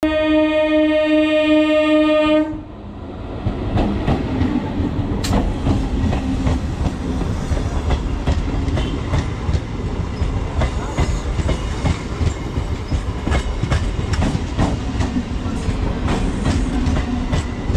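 A train horn sounds one loud, steady blast that cuts off abruptly about two and a half seconds in. Then an electric multiple unit train runs past close by: a continuous rumble with wheels clicking over rail joints in an uneven rhythm.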